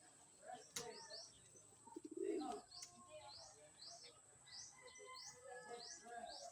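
Faint bird sounds: a pigeon gives a low coo about two seconds in, over a steady run of short, rising high-pitched chirps from small birds, roughly two a second. A single sharp click comes just under a second in.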